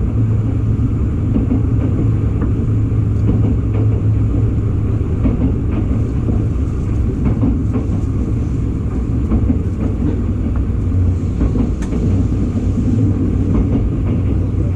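Electric local train running at speed, heard from inside the passenger car: a steady low rumble of wheels on the rails and the running gear, with faint scattered clicks.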